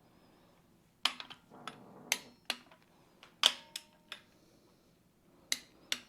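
Sharp metallic clicks and clinks of hand tools working the cylinder head bolts of an Allis-Chalmers C engine, about ten at irregular intervals, one near the middle leaving a brief ring.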